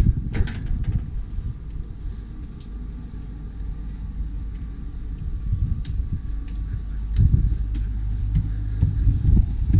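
Wind buffeting the microphone out on open deck: an uneven low rumble, with a few light knocks.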